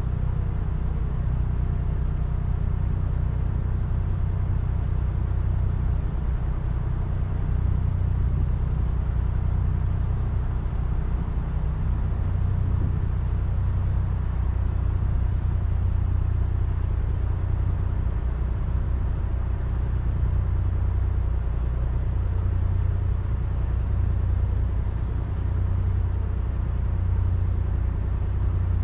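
Narrowboat's diesel engine running steadily at cruising speed, a low, even rumble with a deep droning hum.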